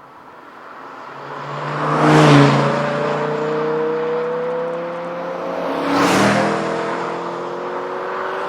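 Audi R8 GT's V10 engine accelerating past. The engine note climbs steadily, with two close passes about four seconds apart, the first the louder.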